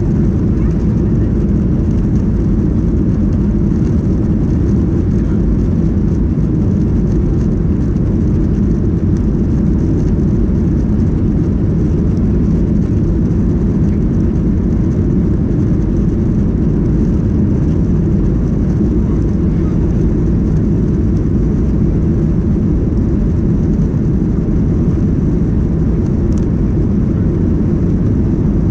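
Steady low rumble of a Ryanair airliner's jet engines and airflow heard inside the passenger cabin, holding at one level throughout.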